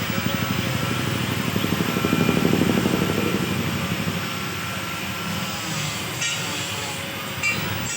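A motor's fast-pulsing rumble swells, loudest about two and a half seconds in, then fades away. A sharp click comes near the end.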